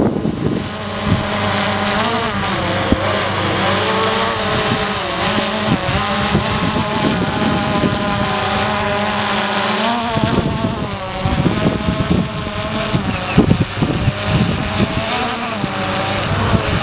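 DJI Phantom 2 Vision quadcopter's propellers humming, the pitch drifting up and down as the motors hold it steady in strong gusty wind. Wind buffets the microphone, heavier in the second half.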